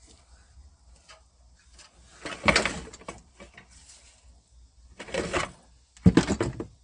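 Hand tools and gear being shifted about on a garage floor: three short bursts of clattering and scraping, the loudest near the end, with light knocks and clicks between.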